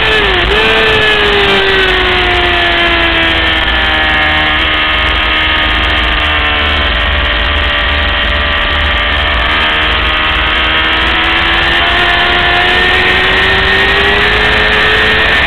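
600cc racing motorcycle engine running hard under load. Its pitch dips sharply and recovers right at the start, like a quick gearshift. The revs then sag slowly for several seconds and climb steadily again toward the end.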